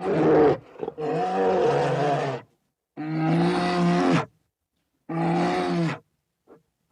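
An animal calling, four loud calls of about a second each with short gaps between them.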